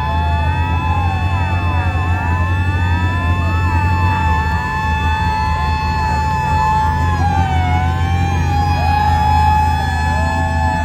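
Several sirens wailing at once, their pitches rising and falling out of step with each other, over a steady held siren tone and a deep low engine rumble.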